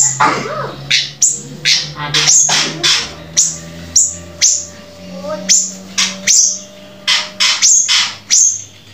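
Songbird giving a rapid string of short, sharp chirped notes, about two a second, over a low steady hum.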